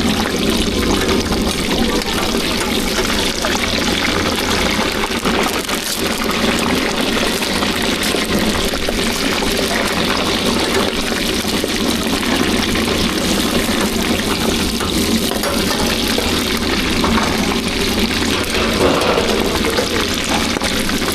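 Steady hiss of food cooking on a street food stall, with liquid frying in a hot pan, and faint voices underneath.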